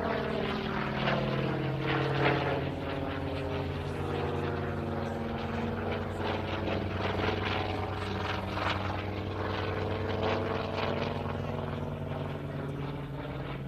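Hawker Sea Fury's Bristol Centaurus 18-cylinder sleeve-valve radial engine droning steadily as the propeller aircraft flies its display, its pitch bending as it passes.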